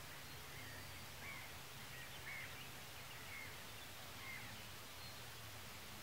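A bird calling: a string of short, arched calls roughly once a second, over a faint steady outdoor hiss.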